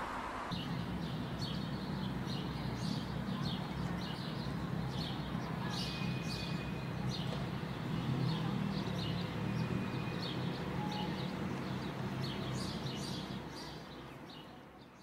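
Small birds chirping, many short high calls at irregular intervals, over a steady low rumble. The sound fades out near the end.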